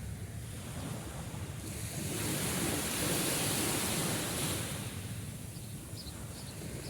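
Sea waves on a shore: a wave swells and breaks about two seconds in, then washes back and fades after about five seconds.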